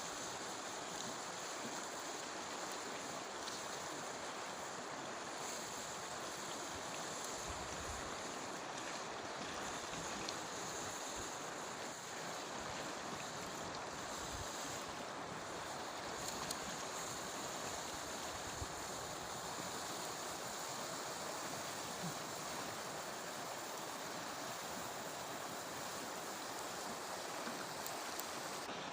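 Steady rushing of a flowing mountain river.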